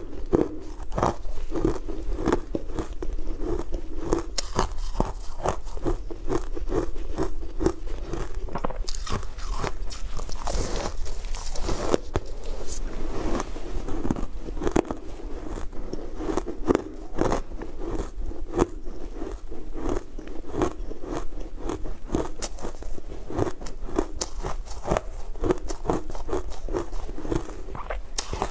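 Close-miked biting and chewing of a crumbly, crunchy food, a dense run of irregular crunches and crackles throughout.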